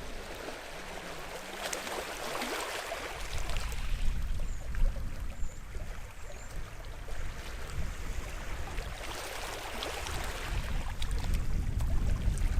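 Sea waves washing onto the shore, a steady hiss of water that swells twice: about two seconds in and again around nine to ten seconds in.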